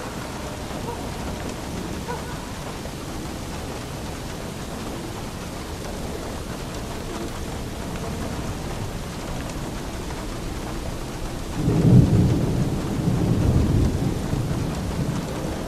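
Steady rain falling, with a roll of thunder that rumbles up near the end and fades over a few seconds.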